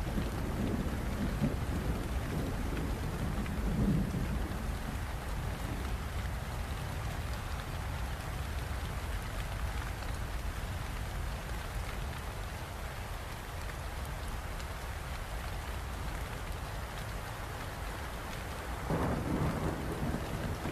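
Steady heavy rain falling, with low rolls of thunder rumbling through the first few seconds and again shortly before the end.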